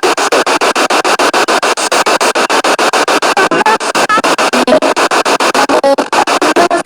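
Spirit box radio scanner sweeping through stations, chopping the sound into slices several times a second. Each slice is mostly static, with brief snatches of music and voice from the stations it passes.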